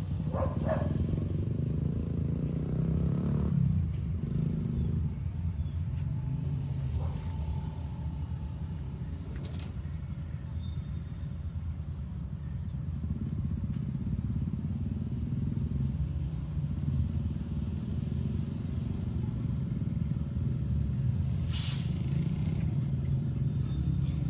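Motorcycle engines running at low speed, a steady low rumble, with a sharp click about ten seconds in and another near the end.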